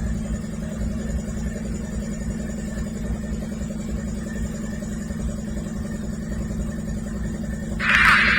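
Diesel freight locomotives idling with a steady low engine hum. Near the end, a loud hiss starts suddenly over it.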